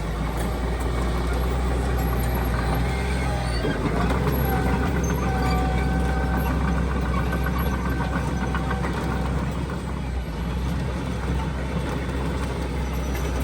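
Heavy diesel earthmoving machinery running steadily under load, with a low engine drone; a thin whine joins about four seconds in and fades a few seconds later.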